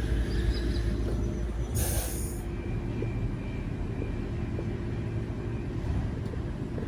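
A train rumbling past or through the platform, with a short, sharp hiss of air about two seconds in.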